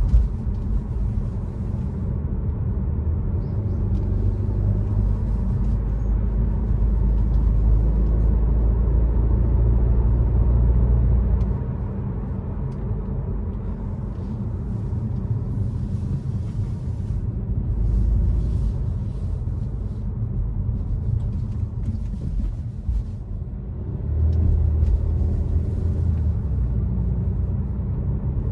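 BMW F30 330i's turbocharged four-cylinder engine running through an aftermarket Aura ARP exhaust while driving: a deep, steady drone that swells louder for several seconds under throttle about a quarter of the way in, eases off, and swells again near the end.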